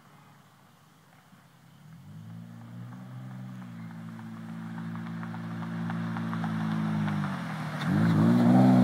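Exhaust of a Dodge Avenger fitted with a high-flow catalytic converter and a new aftermarket muffler, accelerating and growing steadily louder after a quiet first two seconds. Near the end the engine note dips briefly, then climbs again and gets louder still.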